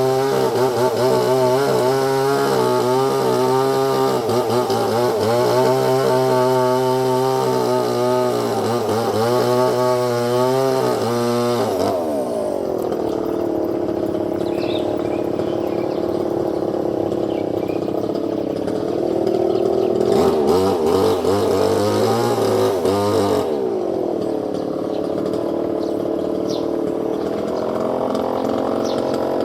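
Small motor running continuously, its pitch steady at first, dropping about twelve seconds in, then rising and falling again a little past the middle.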